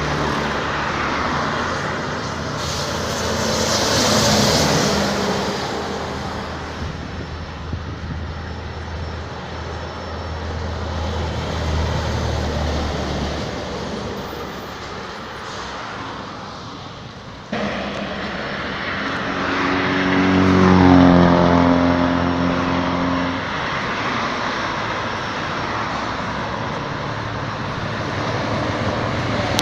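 Heavy road vehicles passing by with engine and tyre noise. The loudest pass comes about two thirds of the way through, its engine pitch falling as it goes by.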